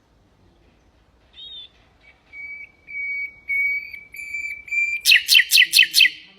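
Nightingale singing: a run of repeated whistled notes on one steady pitch that grow louder, then a loud, rapid burst of about six sharp notes in the last second or so.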